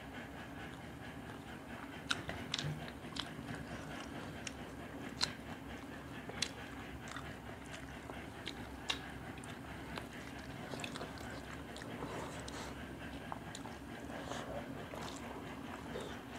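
Close eating sounds of people eating rice and fish curry by hand: chewing and mouth smacks, with scattered short clicks at irregular intervals.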